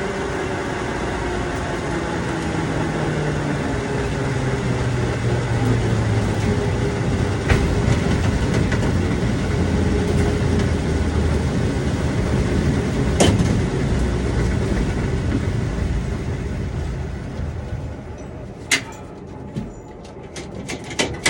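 A motor vehicle's engine running steadily, growing quieter about 18 seconds in. A few sharp clicks and knocks follow near the end.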